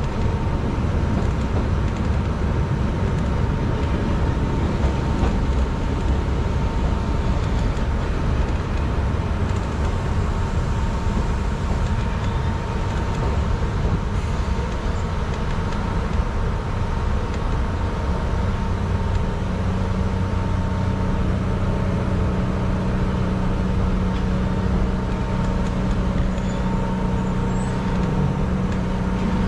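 Keihan Ishiyama-Sakamoto Line electric train heard from inside the driver's cab, rolling slowly into the terminal platform. It comes to a stop about two thirds of the way in, leaving a steady low hum.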